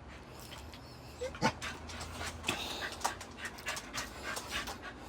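Small dog panting, a quick run of soft breaths at about three a second.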